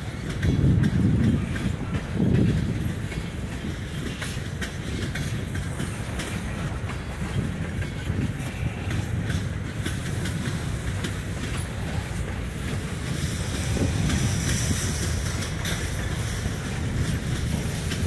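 Freight train cars (tank cars, gondolas and boxcars) rolling past, a steady low rumble of wheels on rail with scattered clicking, louder for a moment in the first couple of seconds.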